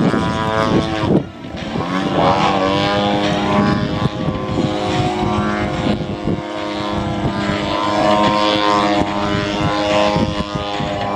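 Radio-controlled Extra 300 aerobatic plane's gasoline engine and propeller, revving up and down through 3D manoeuvres. The pitch falls steeply and the sound dips about a second in, then climbs again and wavers at high revs.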